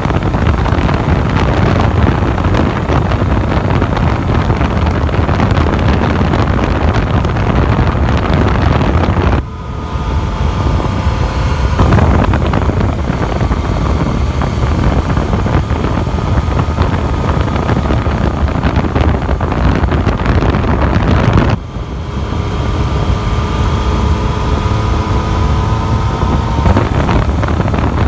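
Wind buffeting the microphone over the Yamaha FZ-09's three-cylinder engine at a steady road cruise. Twice, about a third of the way in and again about three quarters in, the wind noise drops suddenly. The engine's steady tone then stands out for several seconds.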